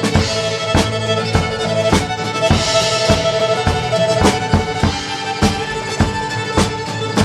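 Band playing an instrumental passage of a song: a held melody line stepping from note to note over a steady beat.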